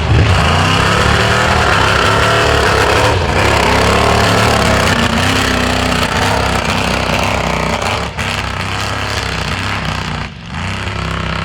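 Off-road vehicle engine running hard, its pitch rising and falling with the throttle, easing off briefly twice near the end.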